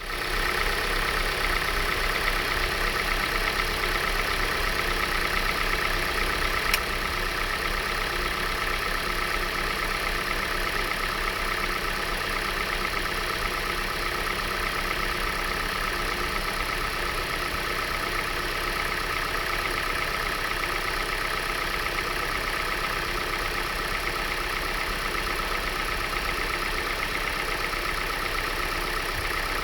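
Hyundai i40 engine idling steadily with a fast, even ticking, which the owner asks about as possible valve tapping. A single sharp click about seven seconds in.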